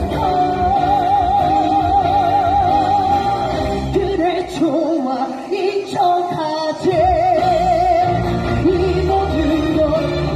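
A high male voice sings a musical-theatre ballad live over band accompaniment, holding long high notes with wide vibrato, first near the start and again about seven seconds in.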